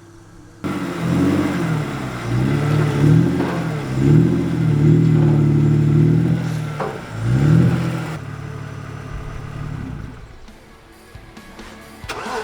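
Car engine revving up and down in a series of rises and falls as the car is driven slowly up onto a trailer ramp, then settling to a steadier, lower run about eight seconds in.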